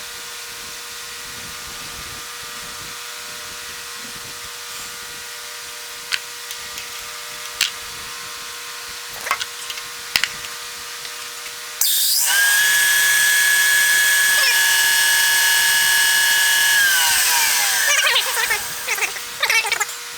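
A low steady hum with a few sharp clicks, then about twelve seconds in a power drill's motor starts suddenly and loudly and runs at a steady high whine for about five seconds. It winds down in pitch as it coasts to a stop, followed by a few clattering knocks.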